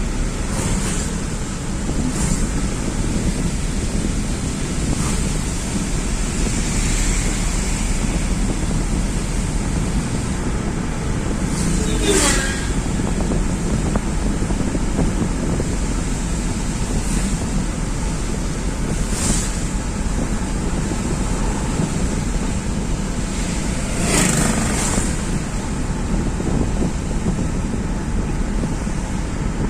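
Steady rumble of road and wind noise from a vehicle driving along a highway, with a few brief louder sweeps, the clearest about twelve and twenty-four seconds in.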